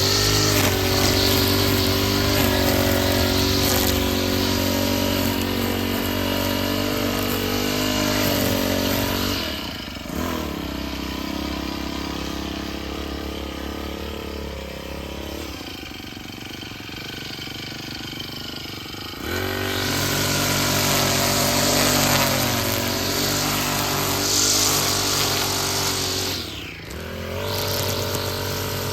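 Small petrol engine of lawn-care power equipment running steadily. It drops to a softer, lower running for several seconds in the middle, picks back up, and dips briefly near the end.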